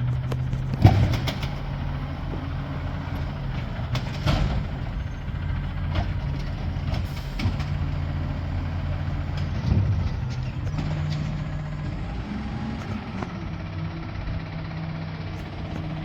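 Garbage truck engine running steadily, with several sharp clanks from the truck's can-lifting arm and lids. The loudest clank comes about a second in, and the engine note rises a little near the end.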